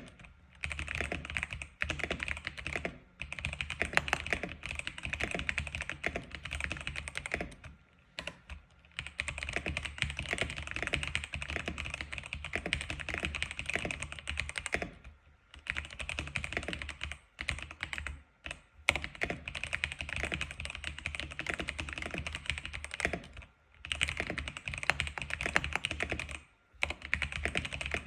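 Typing on an X87 keyboard: fast, dense key clicks in runs of a few seconds, broken by short pauses several times.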